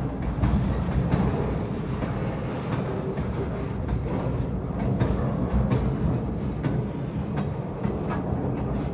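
Freight train rolling past, a steady low rumble of wagons with wheels clicking over rail joints.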